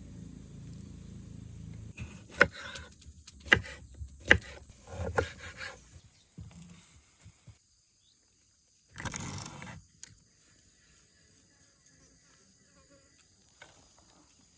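Steady high-pitched chirring of insects over the riverside. A low rumble for the first two seconds gives way to four or five sharp knocks between about two and five seconds in, and there is a short rustling burst near ten seconds.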